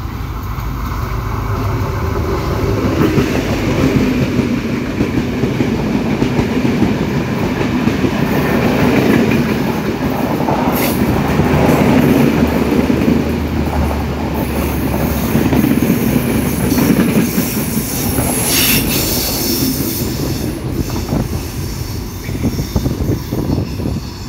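Sri Lanka Railways Class S13 diesel multiple unit passing close by: a loud steady rumble of wheels on rail that swells as it arrives, with brief high-pitched rasps partway through and clacking over rail joints as it pulls away near the end.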